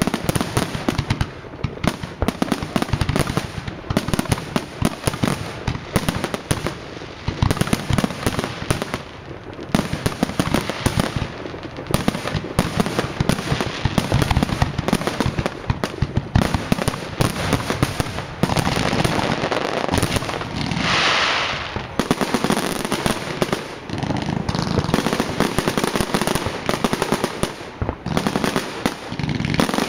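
Fireworks display going off in a rapid, near-continuous barrage of bangs and crackles. About two-thirds of the way through comes a longer hiss.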